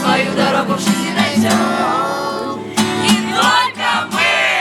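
Voices singing a Russian camp song over a strummed acoustic guitar.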